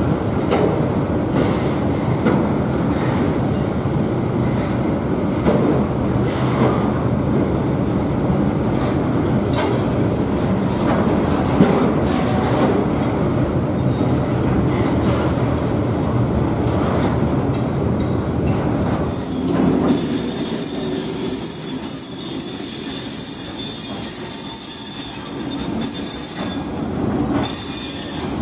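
Freight train wagons rolling past, with a steady rumble and clatter of wheels over the rail joints. From about 20 seconds in, several high-pitched wheel squeals ring out over a quieter rumble of a slower train.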